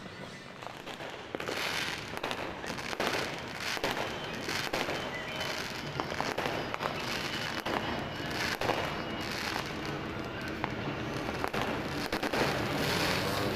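New Year fireworks and firecrackers going off continuously: many sharp pops and bangs, some whooshing, over a steady crackle.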